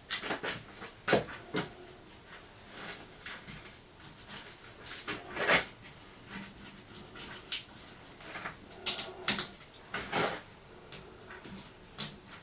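Irregular clicks, knocks and light clatter of small metal parts and tools being handled and set down on a workbench.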